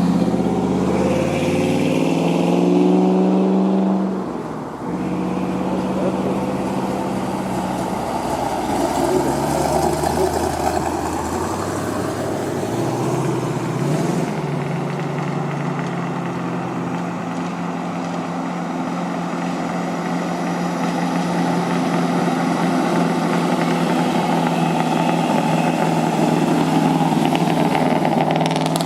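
Car engine running, its pitch shifting up and down a few times as it is revved and eased off, with a brief dip in level about four seconds in.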